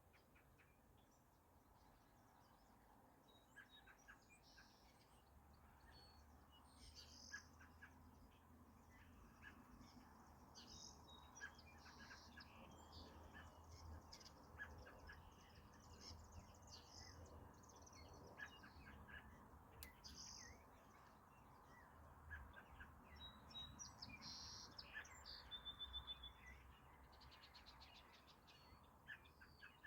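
Wild birds chirping and calling, faintly: many short, scattered high chirps, with a quick run of rapid notes near the end, over a faint low steady rumble.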